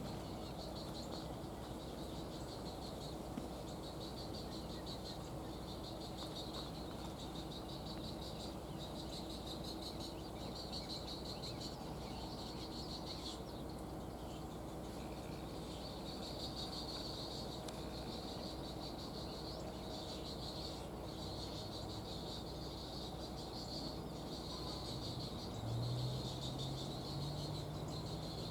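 Insects trilling in a steady, pulsing chorus, with a low call sounding briefly near the end.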